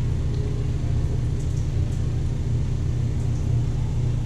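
Steady low rumble of a car heard from inside the cabin, the engine and road noise making an even drone.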